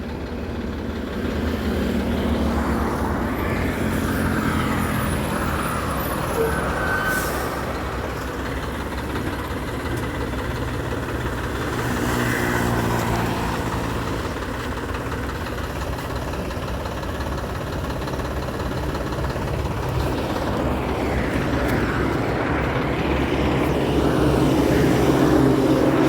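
Heavy vehicle engine running, its pitch rising and falling as it is revved.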